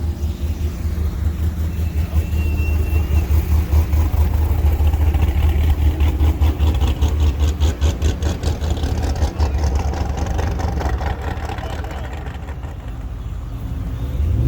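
A car engine running with a low exhaust rumble as the car rolls past. It gets louder and pulses rapidly in the middle, then eases off, with a rev rising right at the end.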